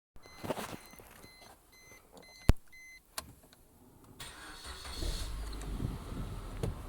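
Suzuki Escudo's J24B 2.4-litre four-cylinder engine being started: short repeated electronic beeps and a few sharp clicks, the loudest about two and a half seconds in, then the engine catches about four to five seconds in and runs with a steady low rumble.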